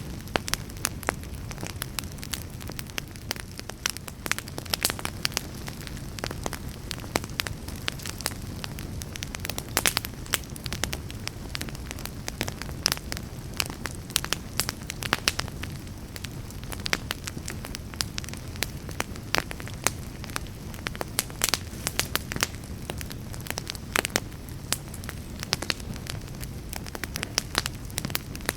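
Wood fire burning in a fireplace, with a steady low rush and frequent sharp, irregular crackles and pops.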